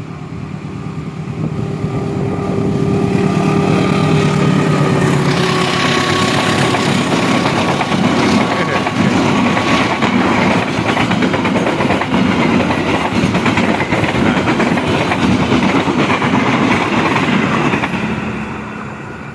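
A KA Brantas train's locomotive approaching and passing close by with an unusual steady humming, several held tones over its engine, a sound the uploader does not normally hear from this train. From about five seconds in, the carriages roll past in a loud rush of wheel and rail noise that fades near the end.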